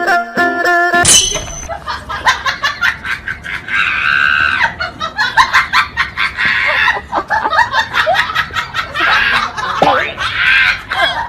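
Music cuts off about a second in; then people laughing and shrieking, with many short knocks and clicks among them.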